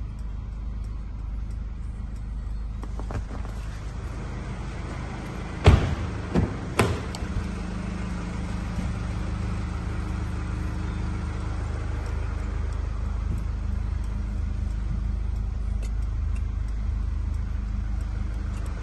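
Mercedes-Benz E220d's 2.0-litre four-cylinder diesel idling, a steady low rumble heard from inside the cabin. Three sharp knocks a little under six seconds in, the first the loudest.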